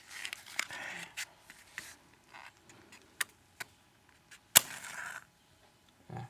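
A matchbox being handled, with small clicks, then a match struck on the box about four and a half seconds in: a sharp scrape followed by a brief hiss as the match flares.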